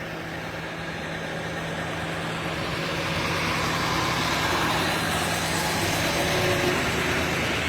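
Heavy truck engine running steadily with a low hum, growing louder over the first four seconds or so and then holding steady.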